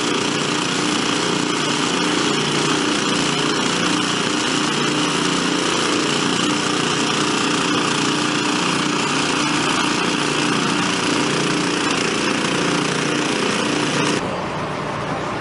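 Portable engine-driven water pumps running steadily, filling an AquaDam water-filled cofferdam. The sound changes abruptly near the end.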